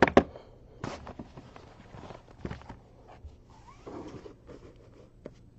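Handling noise on a desk as boxes are slid and set down: a few scattered knocks and scrapes, the loudest two right at the start.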